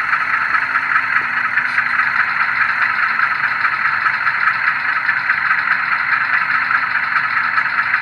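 Sound decoder's GE U25B diesel engine sound running steadily through the HO-scale model locomotive's small onboard speaker, thin and tinny with little bass and a fast, even throb.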